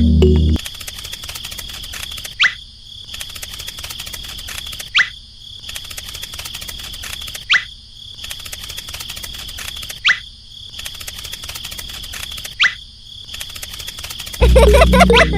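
Insects trilling steadily, with a short rising call about every two and a half seconds. Background music comes back in near the end.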